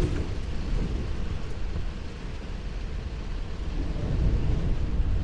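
Heavy rain pounding down while a pickup truck drives through the downpour, with a steady low rumble of the truck's engine and tyres underneath.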